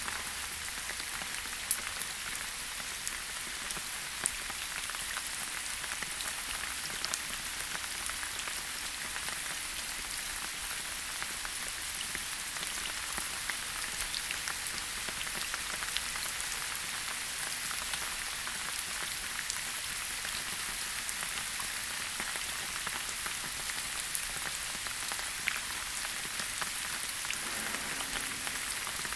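Steady rain falling on foliage in a forest, an even hiss with scattered sharp drips landing close by.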